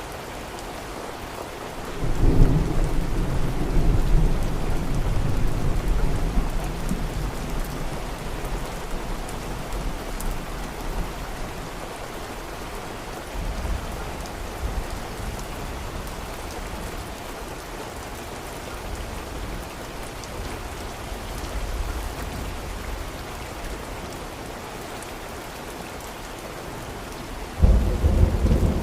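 Steady heavy rain with rolling thunder: a loud low rumble breaks about two seconds in and fades away over several seconds, a fainter rumble comes around the middle, and another sudden loud clap sounds near the end.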